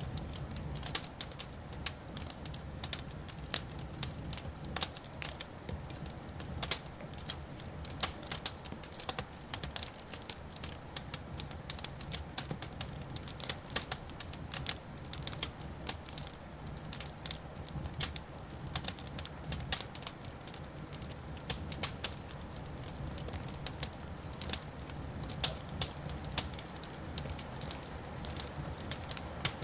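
Wood fire in a fireplace crackling and popping: a dense, irregular run of sharp snaps over a low steady rumble.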